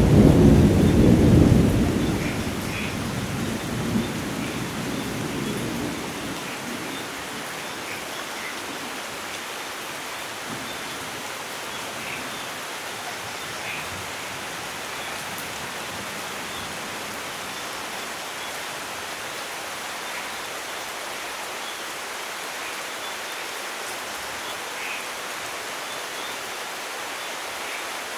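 A loud rumble of thunder at the start that fades away over the first six seconds, then steady rainfall with faint, scattered short chirps.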